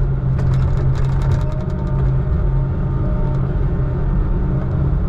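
Heavy diesel engine running steadily, a deep even drone, with a few light clicks or rattles in the first second or so.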